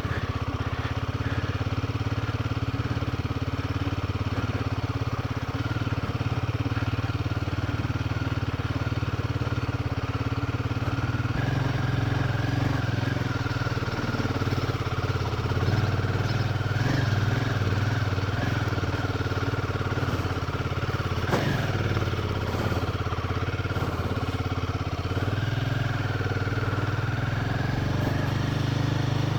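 Motorcycle engine running at a steady pace while riding along the road.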